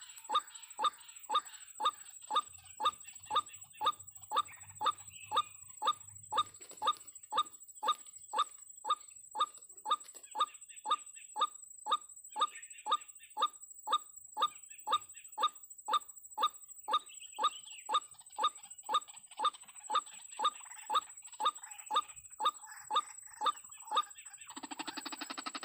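White-breasted waterhen (ruak-ruak) calling a short, sharp note over and over, about twice a second, in a steady, unbroken rhythm. About a second before the end, a louder, harsh noise starts.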